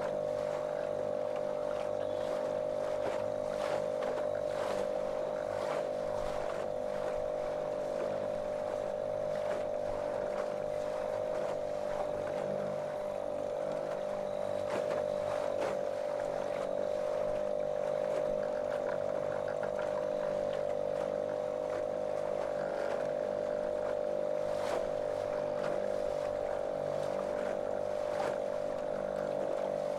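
Small motorboat's motor running at one steady, monotonous pitch.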